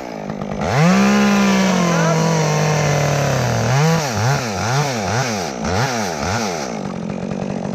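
Chainsaw revving up and cutting, its pitch sagging steadily as the chain loads into the wood. The throttle is then pulsed about six times, rising and falling, before it settles to a lower, steady run near the end.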